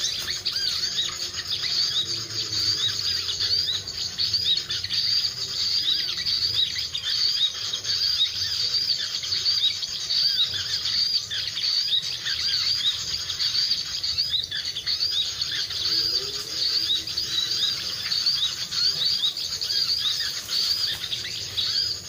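Small birds chirping rapidly and without pause in a high, dense twitter, with insects buzzing underneath.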